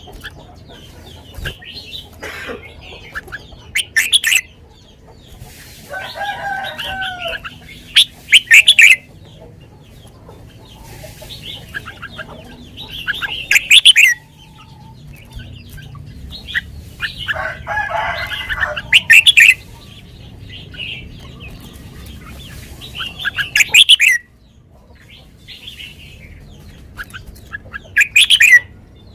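Red-whiskered bulbul singing its 'lak wai' song in short repeated phrases, about one every four to five seconds, each ending in loud high notes. Twice a lower, longer call from another bird sounds between phrases.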